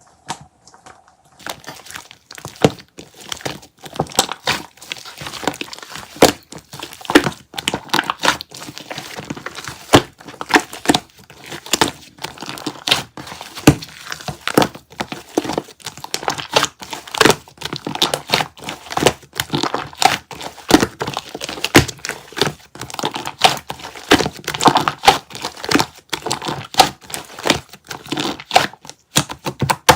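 Dense crisp crackling and crunching, a fast irregular run of sharp clicks, as some brittle material is scraped or shaved close to the microphone.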